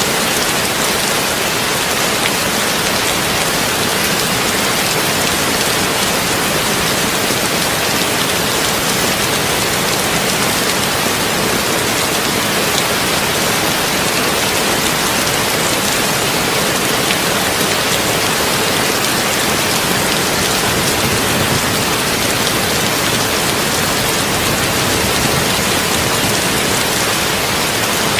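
Heavy rain falling steadily on a tin roof: a dense, even hiss with fine scattered drop ticks.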